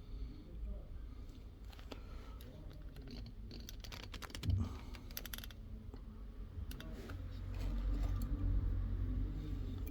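Handling noises from hands-on repair work: scattered light clicks and taps, a thump about four and a half seconds in, followed by a quick run of rapid clicks.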